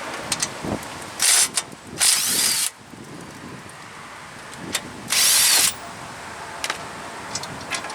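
Power tool run in three short bursts on the front brake caliper bracket bolts, loosening them.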